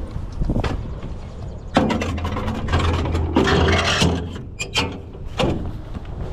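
Truck running with a steady low rumble, a louder surge of noise and low hum through the middle, and several sharp clunks and rattles before and after it.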